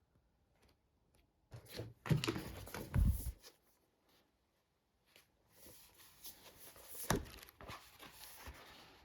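Objects being handled: rustling and clatter with heavy low bumps about two to three seconds in, a short lull, then more rustling with a sharp knock about seven seconds in.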